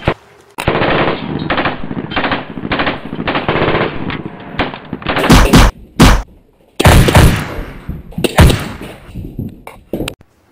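Gunfire: a single shot, then a long burst of rapid automatic fire lasting about four seconds, then a string of louder separate shots with short gaps between them, the last two close together near the end.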